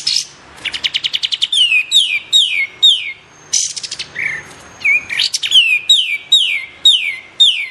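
Kapas tembak songbird calling: rapid rattling trills alternating with runs of sharp whistled notes that slide steeply downward, repeated a little more than twice a second.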